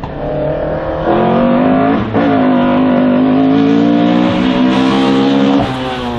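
Race car engine working hard: the revs climb, dip briefly at a gear change about two seconds in, hold high, then drop off near the end as the driver lifts.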